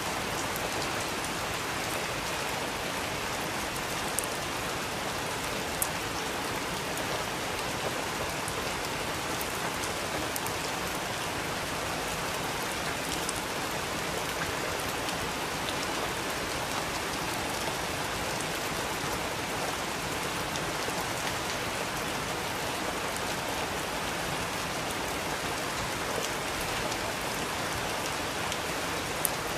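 Steady rain falling on a surface, a dense even hiss with a few sharper single drop hits, at around 4, 6 and 8 seconds and near the end.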